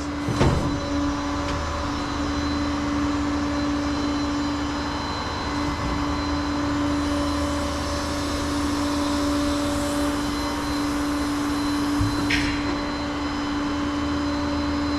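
Flatbed tow truck's engine running with its hydraulic pump engaged, a steady whine over the engine's rumble as the bed is lowered. A single clunk about twelve seconds in.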